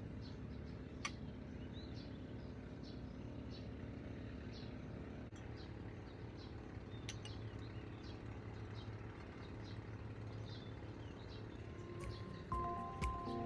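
Faint, short bird chirps repeating every second or so over a steady low background hum. Music comes in near the end.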